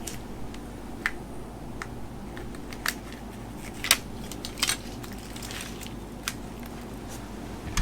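Scattered light clicks and clinks as plastic wiring-harness connectors and clips are worked loose from an engine and transmission, over a steady low hum.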